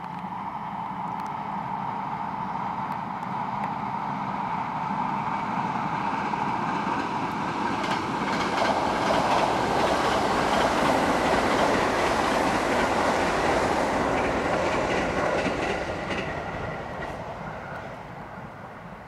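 285 series Sunrise Express sleeper train (electric multiple unit) passing by on the rails: its running noise and wheel clatter build, peak about halfway through, then fade as it moves away.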